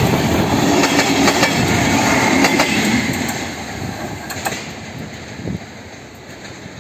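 A train rolling over rail joints: its wheels clack irregularly over a steady whine, and the sound fades away over the second half as the train moves off.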